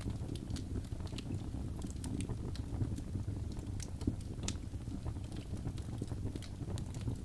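Fire crackling: a steady low rumble of flames with frequent irregular sharp pops and snaps.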